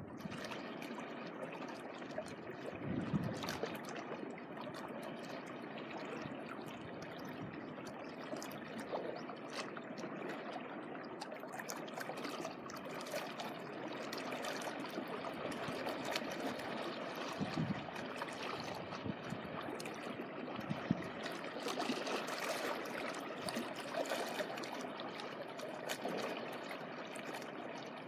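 Small sea waves washing and trickling at the shoreline, a steady wash of water with a few soft low thumps.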